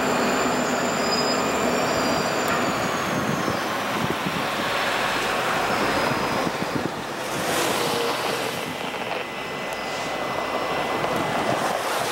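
Distant rumble of an approaching work train's diesel locomotives under a steady rush of wind and rain on the microphone, with a faint high squeal, likely from the wheels, that slides lower about two seconds in and a stronger gust about seven and a half seconds in.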